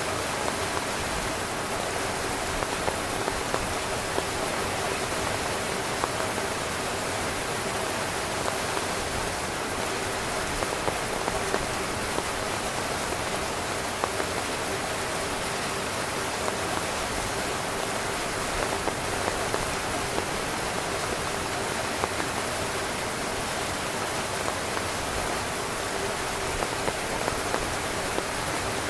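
Heavy rain falling steadily on a tent, a constant hiss with many small drop ticks scattered through it.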